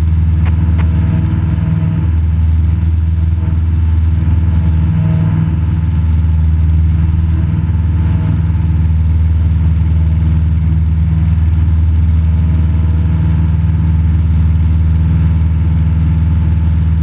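Cessna 172 Skyhawk's piston engine and propeller droning steadily in flight, heard from inside the cabin.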